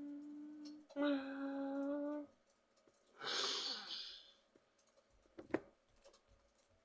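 A steady, held horn-like tone stops under a second in, then sounds again for about a second. A short hiss follows, and a single click comes near the end.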